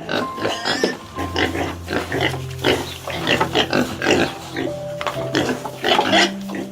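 A rapid, crowded run of short, noisy animal grunts and squeals over soft background music with long held notes.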